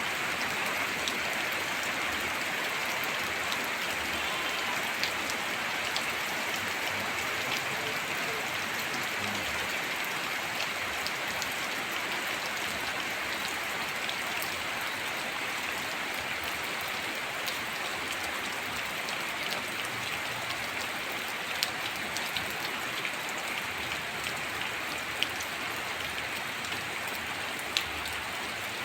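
Heavy rain falling steadily, a dense even hiss, with a few sharper single drop hits in the later part.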